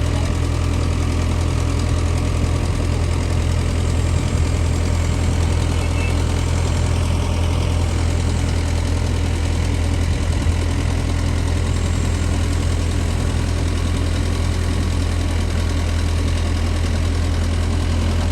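Mini excavator's diesel engine running steadily at an even speed, with a strong low hum.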